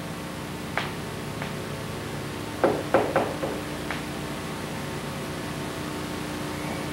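Steady hiss and low hum of an old recording, broken by a few scattered short knocks; the loudest is a quick run of four knocks about halfway through.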